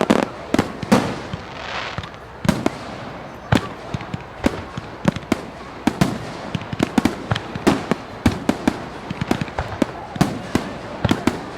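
Fireworks display: a dense, irregular run of sharp bangs, several a second, with crackling between them.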